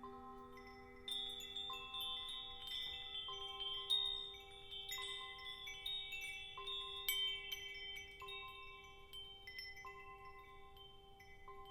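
Found chimes tinkling in a busy scatter of small high strikes, starting about a second in, over long ringing vibraphone-like tones that sound again about every second and a half.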